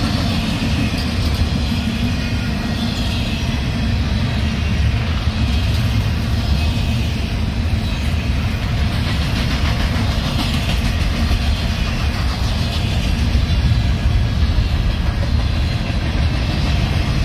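Double-stack intermodal container train passing close by: the steady rumble and clatter of the well cars' wheels on the rails.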